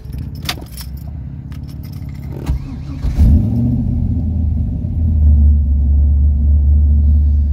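Keys jangle in the ignition of a 1986 Camaro IROC-Z with an LS1 V8 swap as the starter cranks; about three seconds in the engine fires with a short rev and settles into a loud, steady, low idle.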